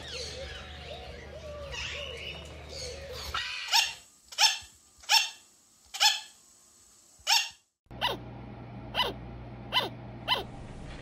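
Blue-and-yellow macaws chattering and squawking softly. Then a sugar glider gives its barking call: five sharp, dog-like yaps about a second apart, falling in pitch. After a brief pause come four more quick yaps.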